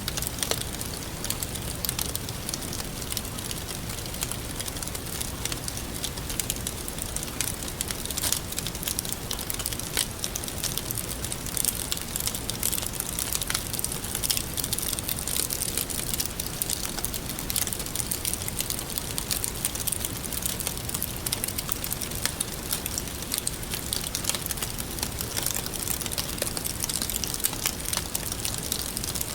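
Wood fire burning with a steady hiss and frequent small crackles and pops scattered throughout.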